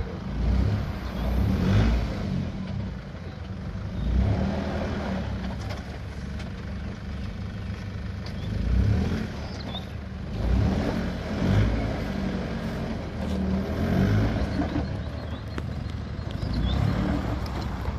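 Four-wheel-drive vehicle's engine running at low speed off-road, swelling every few seconds as it is pushed over rough ground, with scattered knocks.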